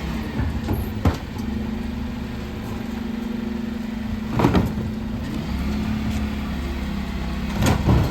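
Dennis Elite 6 refuse truck's engine running steadily, broken by loud clanks about a second in, midway, and again near the end.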